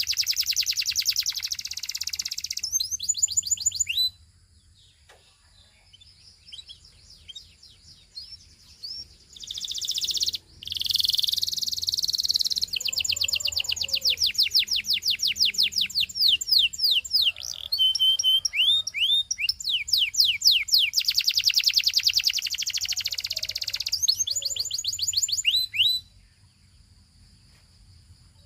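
Canary singing: long phrases of rapid repeated chirps and rolling trills, broken by pauses of a few seconds with scattered single notes.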